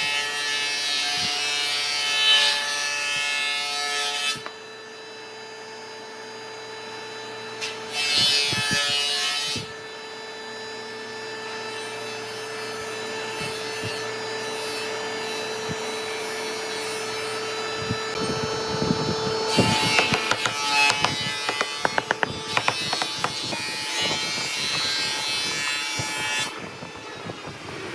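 Electric power tool running steadily on wood, with loud bursts as it cuts: at the start, briefly about eight seconds in, and again from about eighteen seconds with rapid clattering until shortly before the end.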